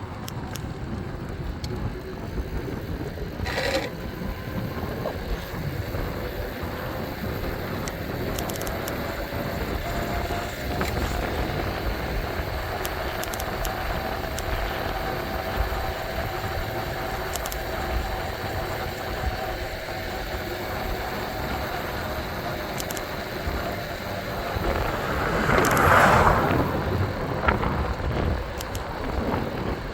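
Steady wind and road noise while riding an electric bike along a road, with a faint whine through the middle. A passing vehicle swells to the loudest point near the end.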